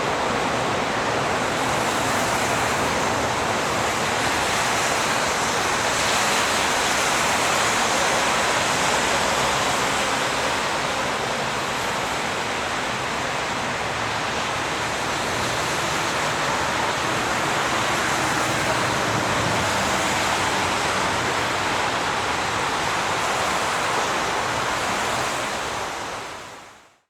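Continuous highway traffic: a steady wash of tyre and engine noise from passing vehicles, swelling and easing slightly, then fading out over the last second or so.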